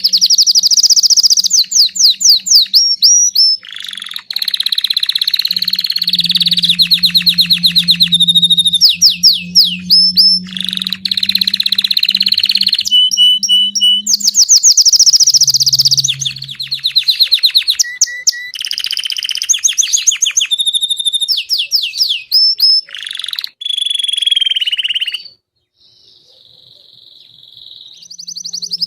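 Belgian canary singing in long, loud phrases of rapid trills and rolls, many notes a second, changing from one tour to the next with short breaks between them. It falls quiet for a couple of seconds near the end.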